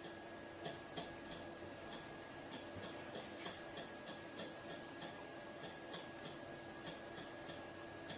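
Slime being squeezed and poked, giving a string of small, faint sticky clicks about two to three a second over a faint steady hum.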